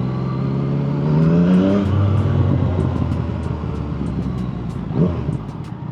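A vehicle engine accelerating, its note rising in pitch for about two seconds, then dropping to a lower steady note, like a gear change, and running on.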